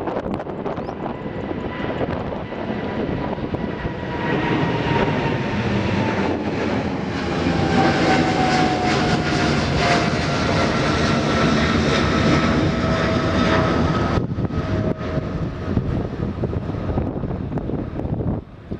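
Jet airliner's engines passing close by. The roar swells to a peak about halfway through and then eases, while a high whine slides down in pitch as the aircraft goes past.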